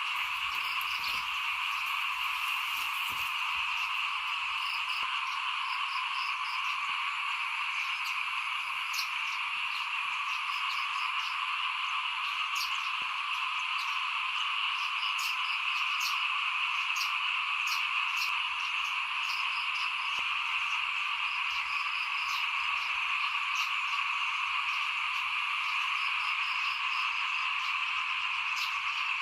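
Dense chorus of many small frogs calling, a steady unbroken wall of calls with scattered short higher-pitched calls over it.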